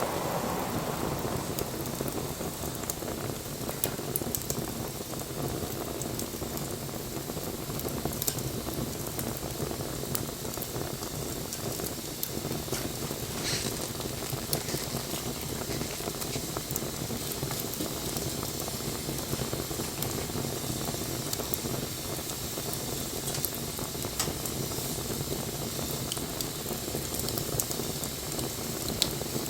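Wood bonfire burning: a steady rush of flame with frequent small crackles and a few louder pops.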